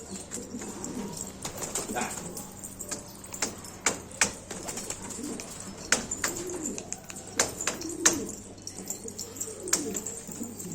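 Domestic pigeons cooing, several low rising-and-falling coos one after another, with sharp taps and clicks scattered through, the loudest about four, six and eight seconds in.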